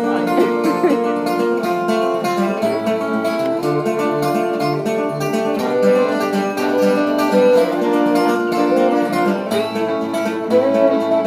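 A band playing the instrumental intro to a folk song on picked acoustic strings, before any singing. Lower bass notes join about two and a half seconds in.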